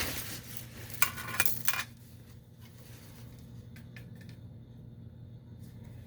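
Wrench scraping and clinking against the brass thermocouple fitting as it is tightened, loudest in the first two seconds with a few sharp metallic clicks. Then only faint ticks over a steady low hum.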